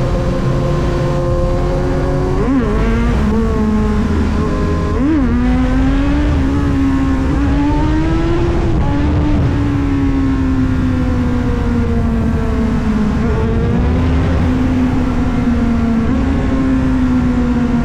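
Kawasaki Z900 inline-four motorcycle with an SC Project exhaust, riding along: two brief sharp jumps in engine pitch a few seconds in, then the note climbs gently and slowly falls away as the bike eases off. A low wind rumble lies under the engine.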